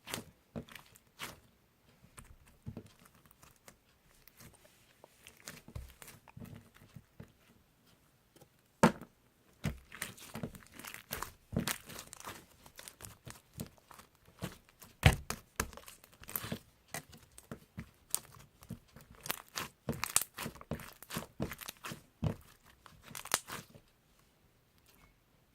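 Close handling noises: irregular crinkling and tearing with many sharp taps and clicks, and two louder knocks partway through.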